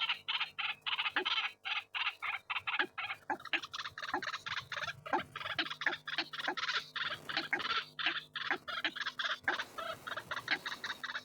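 White-breasted waterhens (ruak-ruak) calling: rapid, repeated croaking notes, several a second, with no pause, over a faint steady hum.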